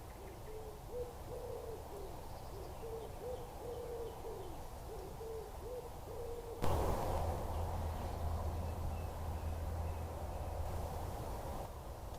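A bird calling in a run of short, low, repeated notes. About six and a half seconds in, the sound changes suddenly to a steady low hum that dies away near the end.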